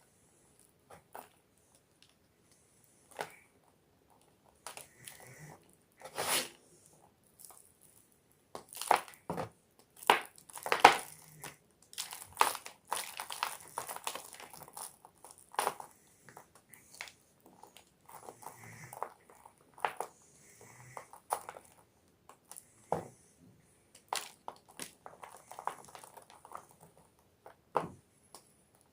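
Block of gym chalk being crushed and crumbled by hand, with irregular sharp cracks and crunches, the busiest stretch a crackly run around the middle.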